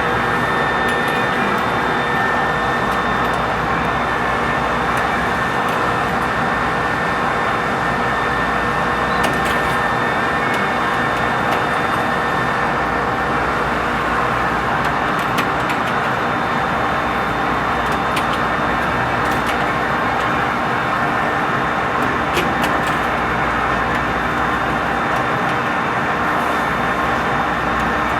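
Lathe running steadily while turning a large part: a constant machine noise with a few steady whining tones and occasional faint ticks.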